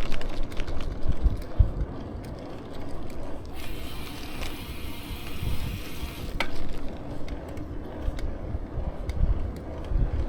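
Bicycle being ridden, heard through a camera mounted on the bike: rapid, irregular ticking and clicking over a low road rumble, with a stretch of hiss in the middle.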